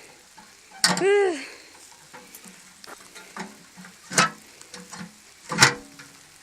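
Raindrops crackling and tapping on a phone's microphone, with a few sharper taps in the second half. About a second in, a person makes a short hum that rises and falls in pitch.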